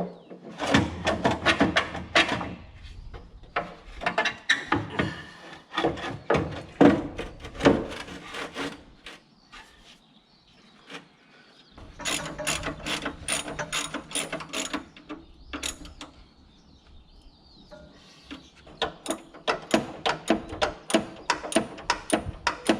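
Hand ratchet wrench clicking in several runs of quick clicks with short pauses between, as a fitting or clamp is worked on during the hose repair.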